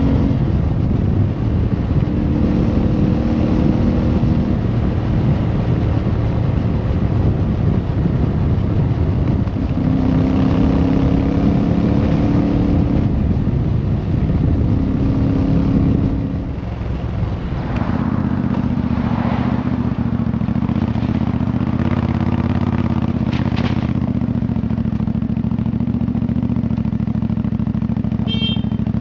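Motorcycle engine running under way, its pitch climbing and dropping in steps through the gears, then easing off about halfway through to a steadier, lower run. A short high beep sounds near the end.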